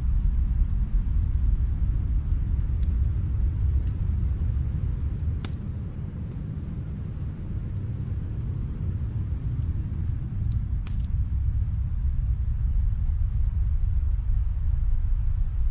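Wood fire crackling in a fireplace, with a few sharp pops, over a steady low rumble.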